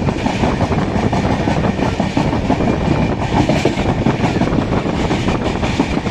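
Moving passenger train on Indian Railways: a steady, loud running noise of wheels on rail, flecked with many small clicks.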